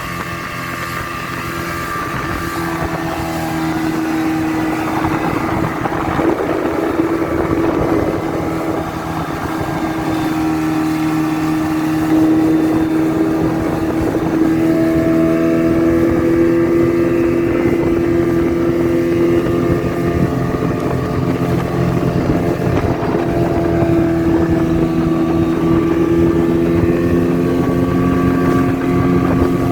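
A motorboat engine running steadily while it tows an inflatable donut ride, its note drifting slowly in pitch and growing louder over the first ten seconds or so, over a hiss of rushing water.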